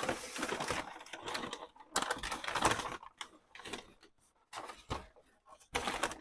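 Packing material rustling and vacuum parts being handled during unpacking: a busy run of scrapes and rustles for about three seconds, then sparser short clicks and knocks.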